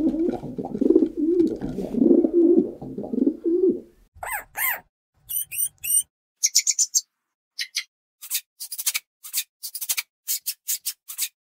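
A domestic pigeon cooing in low, repeated wavering phrases for about four seconds. Then guinea pigs squeaking: short high-pitched calls, some rising in pitch, coming in quicker succession near the end.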